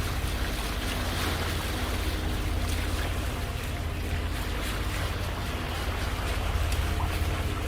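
Water rushing steadily along a sailboat's hull as it moves under way, with wind on the microphone and a steady low hum underneath.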